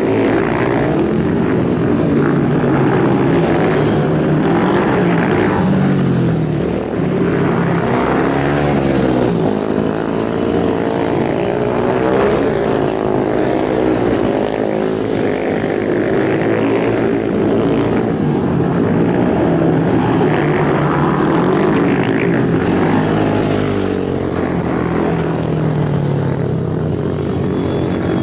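Racing motorcycle engines running hard, their pitch rising and falling again and again as the bikes rev up and back off.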